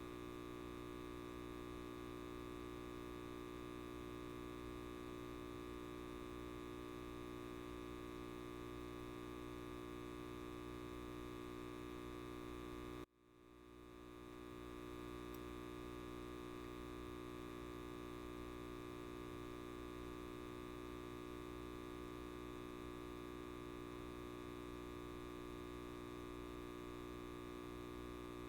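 Steady electrical buzz of a light bulb, a hum made of many fixed tones. About halfway through it cuts out abruptly, then fades back in over a couple of seconds.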